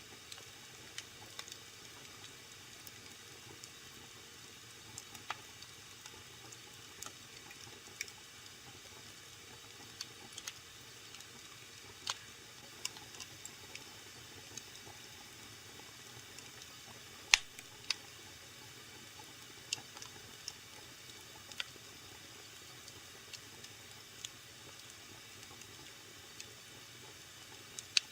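Wood fire burning in a fireplace: a faint steady hiss with irregular sharp crackles and pops, one loud pop about two-thirds of the way through.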